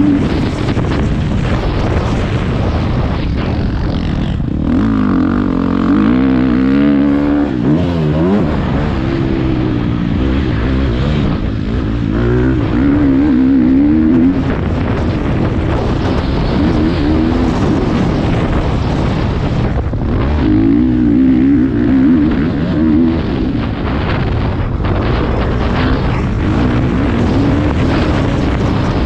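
Motocross bike engine heard from a helmet-mounted camera, its note rising and falling again and again as the throttle opens and closes around the track.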